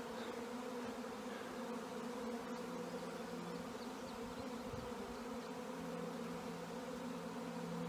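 Steady buzzing drone of a honey bee swarm flying in large numbers around the hives, with several pitches held at once.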